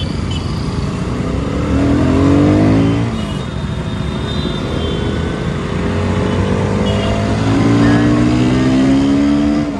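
Motorcycle engine heard from on the bike, revving up as it accelerates, rising in pitch over a couple of seconds, dropping back around three seconds in, then climbing again over the last few seconds, with road and wind noise underneath.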